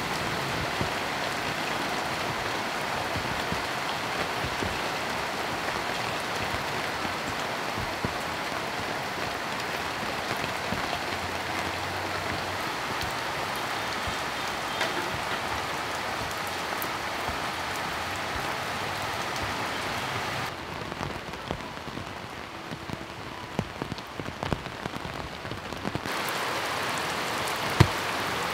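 Heavy rain falling steadily. About two-thirds through it goes softer for a few seconds, with single drops ticking, and near the end there is one sharp tap.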